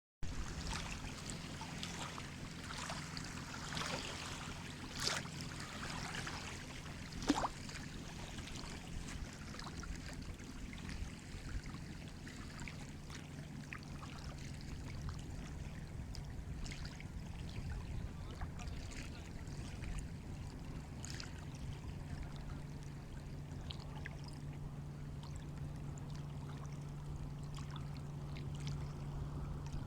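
Sea waves washing, with a steady low hum underneath and a few sharp clicks in the first several seconds.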